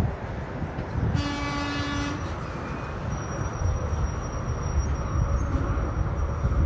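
A single steady horn blast lasting about a second, heard over a continuous low rumbling noise.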